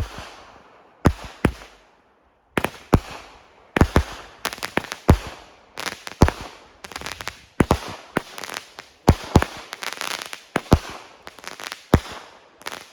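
Fireworks going off in a long, irregular run of loud sharp bangs, one to several a second, with crackling between them and a short lull a couple of seconds in; the bangs stop at the very end.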